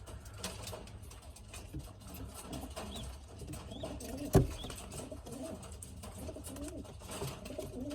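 Pigeons cooing softly and repeatedly in a loft, with one sharp knock about four seconds in.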